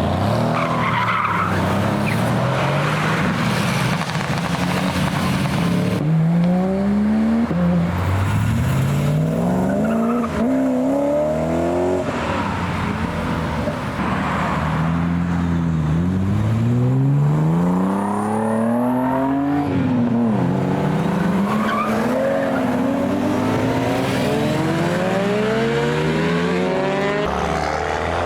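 Performance cars accelerating hard one after another, each engine revving up and shifting through the gears again and again.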